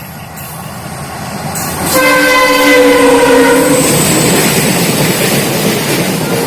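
Diesel freight locomotives (a WDG5 and a WDG4D) approaching on a double-stack container train: a rumble that grows louder, with the multi-tone air horn sounding once for about two seconds, starting about two seconds in.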